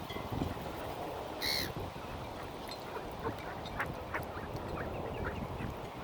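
Mallard ducks quacking, with many short calls scattered throughout and one brief, high-pitched call about one and a half seconds in.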